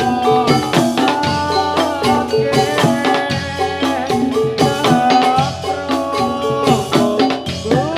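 Javanese gamelan music for a jathilan dance: struck metallophones playing a busy, continuous melodic pattern over drumming.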